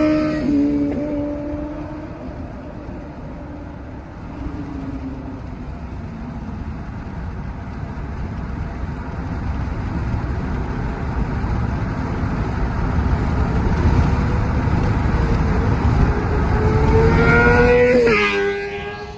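2024 Kawasaki ZX6R's 636cc inline-four sounding through an M4 GP19 slip-on exhaust. The pitch falls off at the start, then the note swells louder with a climbing pitch over the second half and drops away suddenly near the end.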